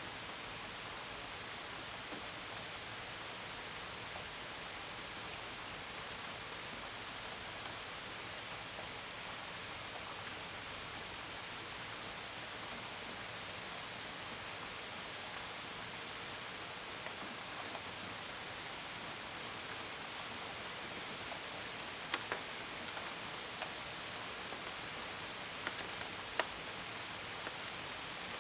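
Steady gentle rain, with single drops pattering sharply against a window and gutters, more often in the last few seconds. Crickets chirp faintly and regularly in the background.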